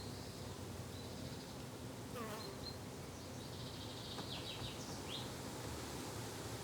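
Summer garden ambience: insects buzzing in a low steady drone, with small birds giving short high chirps and a quick run of notes about four to five seconds in.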